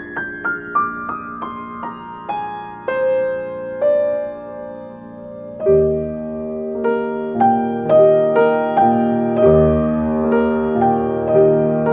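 Soft piano music: a slow run of single notes stepping down in pitch, then low bass notes and fuller chords come in about halfway through.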